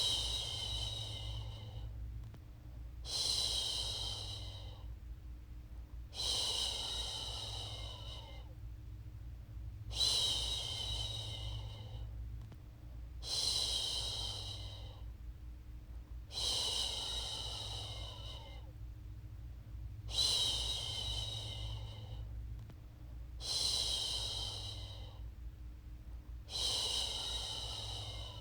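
A woman's voice shushing a baby to sleep: a long "shhh" repeated about every three seconds, each one starting strongly and fading away, with a faint low hum underneath.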